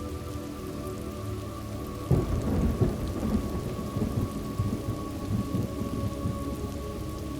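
Steady rain with a thunderclap about two seconds in that rolls on as a low, swelling rumble.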